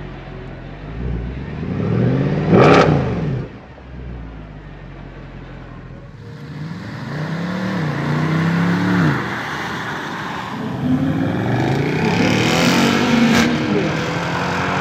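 Mercedes C63 AMG Black Series 6.2-litre V8 exhaust revving, its pitch climbing and falling several times. The loudest rev peaks sharply about two and a half seconds in, followed by a quieter lull before further revs rise and fall.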